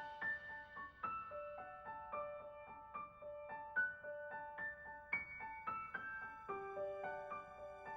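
Gentle background piano music, a slow melody of single notes with chords.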